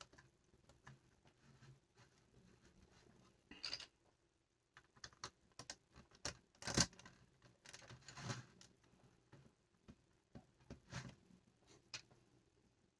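Plastic LEGO bricks being handled and pressed together: faint, scattered clicks and short rustles, a few of them louder, the loudest about seven seconds in.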